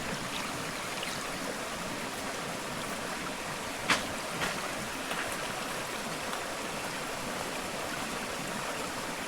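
Steady rush of running water, with one sharp click about four seconds in and a fainter one just after.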